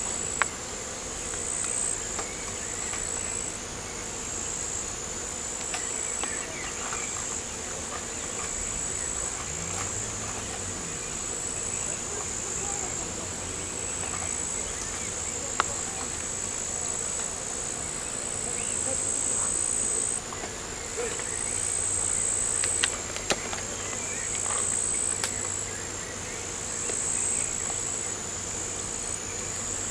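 Crickets trilling continuously in a high, steady shrill that shifts slightly up and down in pitch, with a few sharp clicks scattered through.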